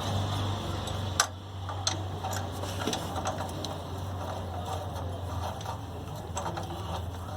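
Irregular metallic clicks and clinks of hand tools working on the generator head bolts, with one sharp clink about a second in, over a steady low hum.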